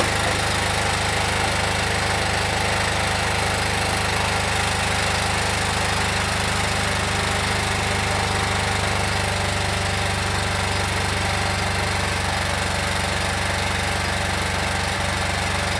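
Dodge 600's engine idling steadily, heard at the tailpipe, just after its blown head gasket was sealed with a head gasket sealer.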